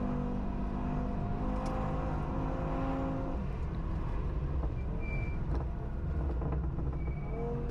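Onboard sound of an Audi S1's swapped-in RS3 2.5-litre five-cylinder engine running hard under a heavy road and wind rumble. The engine note changes about three seconds in.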